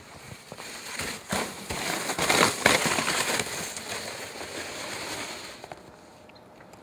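Sled sliding over packed snow, a crackly scraping hiss that builds about a second in, is loudest around two to three seconds in, then fades away.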